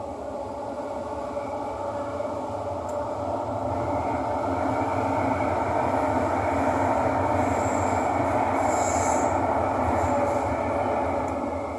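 Interior running noise of a Singapore MRT Thomson–East Coast Line train travelling between stations, a steady rumble that builds in the middle and eases off near the end. A brief high squeal or hiss comes about three-quarters of the way through.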